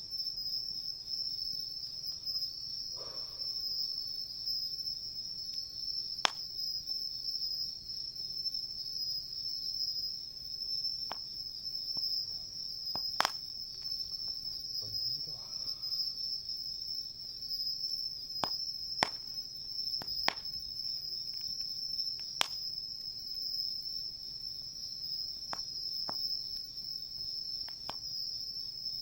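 Steady high-pitched chorus of crickets and other insects chirring, with a dozen or so sharp pops and crackles from a wood campfire scattered through it.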